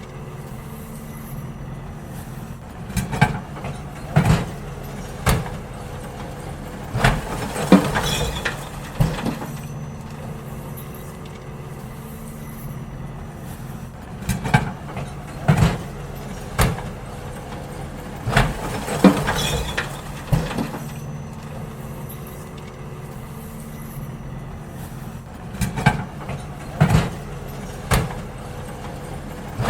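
Garbage truck engine running steadily while bins are emptied, with groups of about three sharp clanks and bangs every few seconds as the bins are tipped into the truck.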